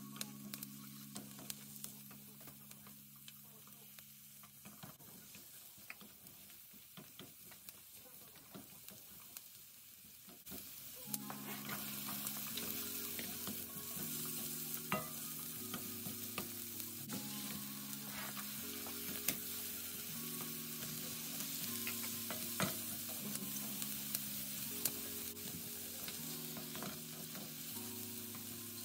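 Diced onion and garlic sizzling gently in butter in a stainless steel frying pan; about eleven seconds in, sliced mushrooms and diced bell peppers go in and the sizzle grows louder, with a spatula clicking and scraping against the pan as the vegetables are stirred.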